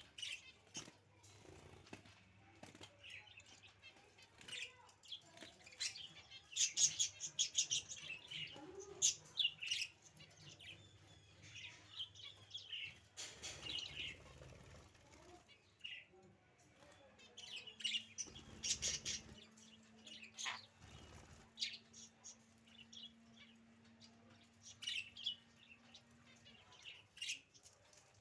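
Pet budgerigars chirping and chattering in quick, repeated twitters, with a couple of louder flurries of noise around the middle.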